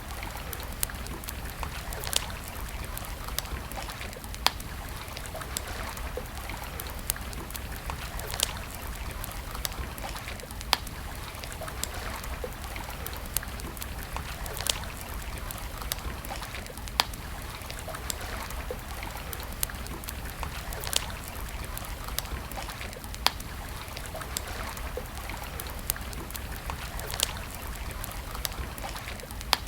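Campfire crackling, with sharp pops every second or two over a steady rush of running stream water.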